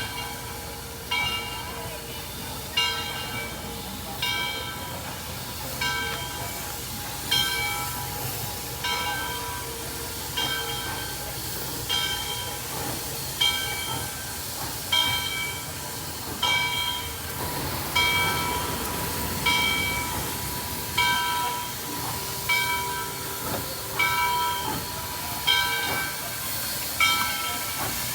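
Locomotive bell ringing steadily, about one ring every second and a half, over a continuous steam hiss.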